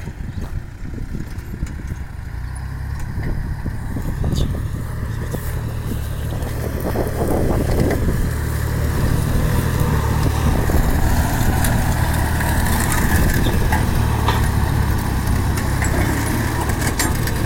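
Kubota farm tractor's diesel engine running steadily, growing louder over the first ten seconds or so and then holding level.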